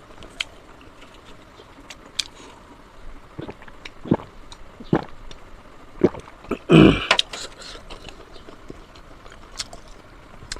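Close-miked eating of pork leg and pork nose: chewing and wet mouth smacks, with scattered sharp clicks. A louder sound lasting about half a second comes near seven seconds in.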